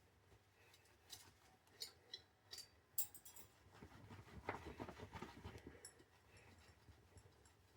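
Faint handling noise: a few light clicks and taps, then a stretch of rubbing about four seconds in, as a WD-40-soaked rag wipes down a freshly anodized and sealed aluminium BMX rim.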